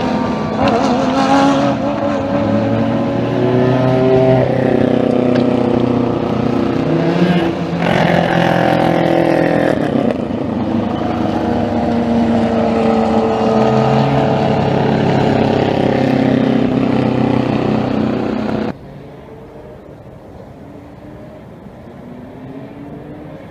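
Endurance racing cars' engines passing at speed one after another, their pitch climbing and falling with gear changes. About nineteen seconds in the sound cuts suddenly to a much quieter, more distant engine hum.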